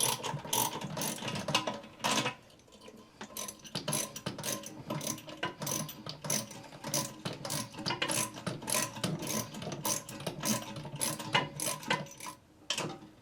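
Socket ratchet clicking in quick runs as it loosens the nut on a toilet tank-to-bowl bolt, with a short pause about two seconds in.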